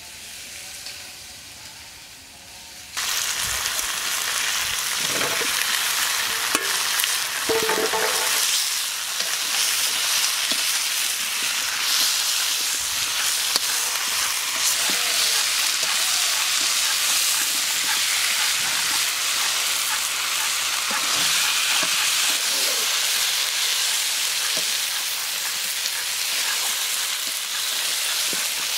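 Cauliflower, potatoes, tomatoes and fish sizzling as they fry in an iron wok, stirred with a perforated metal spatula. The sizzle is quieter at first, jumps up sharply about three seconds in and then stays loud and steady. A few scrapes and clinks of the spatula on the pan come in the first several seconds.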